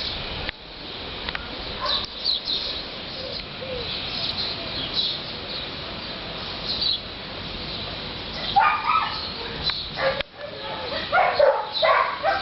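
Steady wind noise with short high bird chirps throughout, and two clusters of louder animal calls, one about two-thirds of the way through and one near the end.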